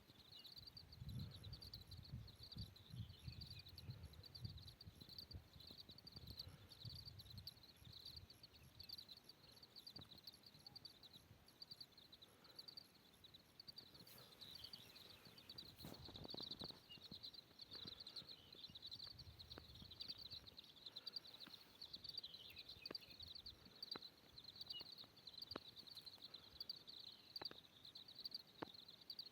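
Faint, steady, high-pitched trilling of an insect chorus, pulsing rapidly without a break. Scattered soft clicks and a few faint chirps sit over it, and a low rumble is heard for the first few seconds.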